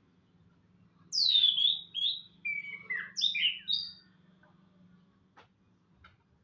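Orange-headed thrush (anis kembang) singing one phrase of quick, varied whistled notes, several sweeping down in pitch, lasting about three seconds. A few faint clicks follow near the end.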